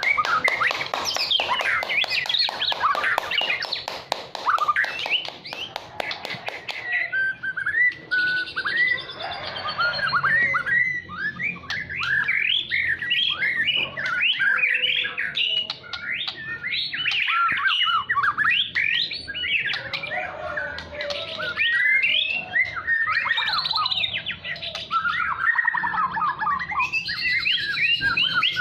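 White-rumped shama (murai batu) singing continuously. It opens with a fast rattling stutter for several seconds, then runs into a long stream of quick, varied whistled phrases sliding up and down.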